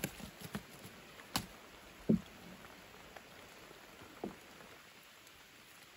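Light rain pattering on the water around a small wooden boat, with a few sharp knocks and two short dull thumps in the boat while fish are picked out of a gill net.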